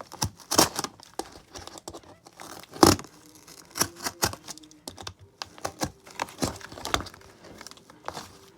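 Irregular clicks, crackles and crinkles of cardboard being handled and worked by hand, the loudest snap about three seconds in.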